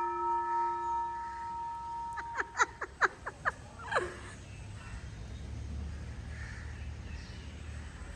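A temple bell's ringing dies away, then about six short, sharp calls come in quick succession, the first around two seconds in. A low steady rumble follows for the rest of the time.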